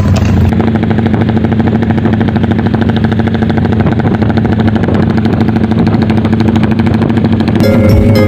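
Motorcycle engine running steadily through a Fanttera racing exhaust, a fast, even string of exhaust pulses. Music comes in near the end.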